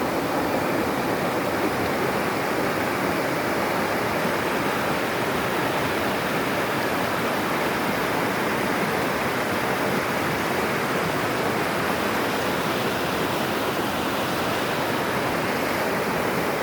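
River water rushing over rocks, a steady, even rush of flowing water.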